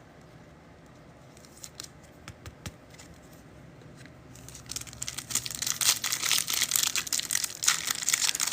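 Trading-card pack wrapper crinkling and tearing as a pack is opened by hand, starting about halfway through after a few faint clicks.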